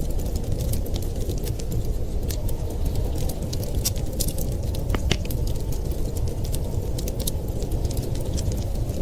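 Wood fire crackling in a fireplace, with many small irregular pops and snaps, over a steady low rumble of wind.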